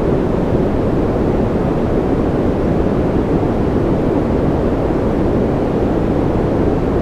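Steady, unbroken white noise for sleep and concentration, deep and rumbling rather than hissy, with no drops or patter standing out.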